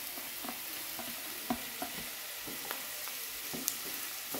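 Shredded chicken and diced vegetables sizzling in butter and oil in a karahi, with a steady hiss. A wooden spoon scrapes and knocks against the pan a few times a second as the chicken is stirred in.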